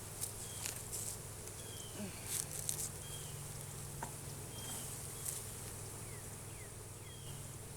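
Honey bees buzzing around an open hive as a steady low hum. A few sharp clicks sound over it.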